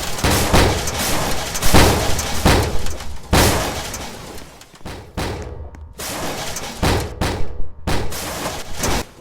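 Washing machine banging and crashing hard: a rapid, irregular run of loud impacts over a low rumble, cutting off suddenly at the end.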